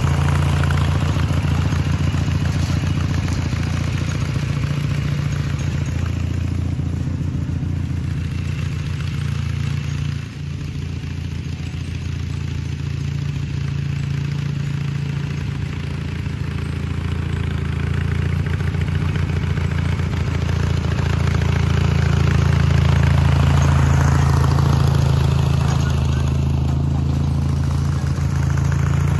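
Garden tractor engine running steadily under light load while pulling a tow-behind dethatcher over the lawn, with a brief dip about ten seconds in.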